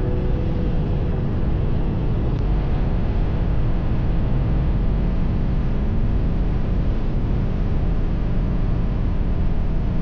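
Steady wind roar and engine rumble from a Harley-Davidson motorcycle being ridden at speed, the wind on the microphone covering the engine note.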